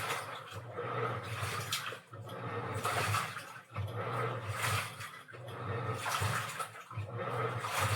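Washing machine running with water in the drum: its motor hums in spells of a second or two, breaking off briefly between them, while the water sloshes and swishes, as in an agitating wash.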